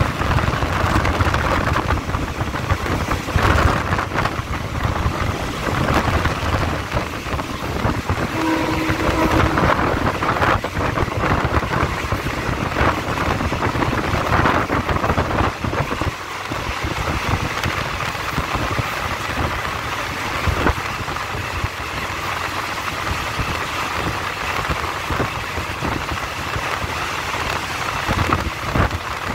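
Passenger train running along the track, heard from an open door: wind buffeting the microphone over the rumble and clatter of the wheels on the rails. The heavy wind rumble eases about sixteen seconds in.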